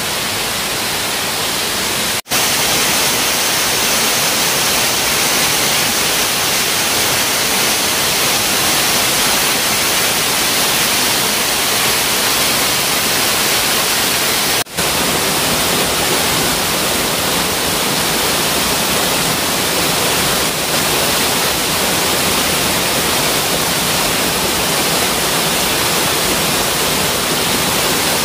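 Waterfall rushing, a loud steady roar of falling water close by, broken twice by very short gaps.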